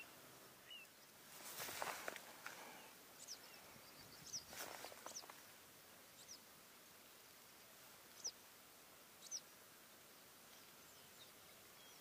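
Faint, short, high bird chirps, about half a dozen scattered through, over a low steady hiss. Two brief soft rustling noises come in the first half.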